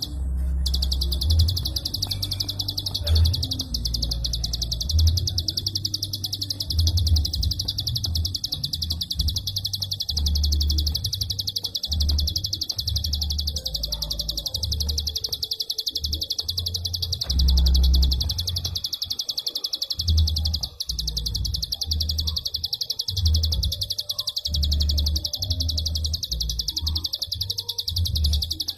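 Prinia (prenjak) giving its 'klik' call: a long, fast, tightly packed run of high clicking notes with almost no pause. Underneath, a low rumble comes and goes.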